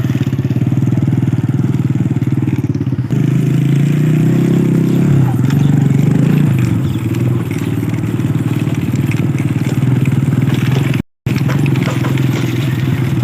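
Motorcycle engine running steadily while the bike is ridden. It gets louder with its pitch shifting for a few seconds, from about three seconds in, then settles. There is a momentary dropout to silence near the end.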